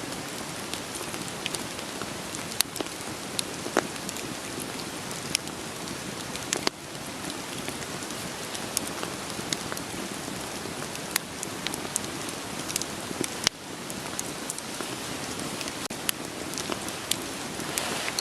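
Steady rain hiss with a wood fire crackling over it: scattered sharp snaps and a few louder pops from burning logs.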